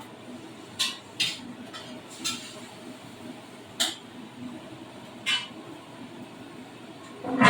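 A metal cooking utensil clinking and scraping against a pan while food is stirred, about six separate strikes, the loudest near the end.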